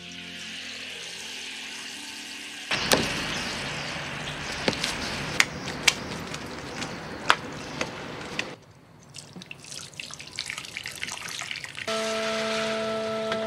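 Food frying on hot pans: a loud sizzle with sharp pops and spatters, then a few seconds of quieter crackling. Near the end a steady hum of several held tones comes in.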